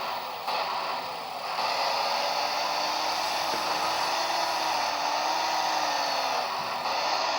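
A 1/14 scale RC hydraulic excavator working its arm: the hydraulic pump runs with a steady whir whose tone wavers up and down as the load changes, mixed with the simulated engine sound that its sound module plays through small speakers. The sound dips briefly just after the start, then holds steady.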